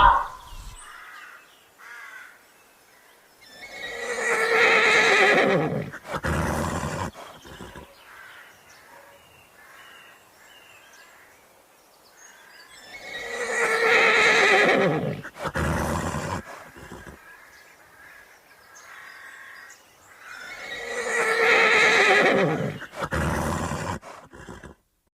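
Horse neighing three times, about eight seconds apart; each whinny falls in pitch and is followed by a shorter, lower sound.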